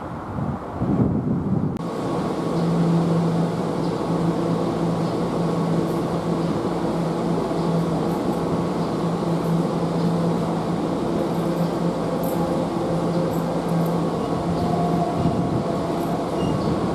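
Keihan electric train running at the platform: a steady hum with a few held low and mid-pitched tones from its motors and on-board equipment.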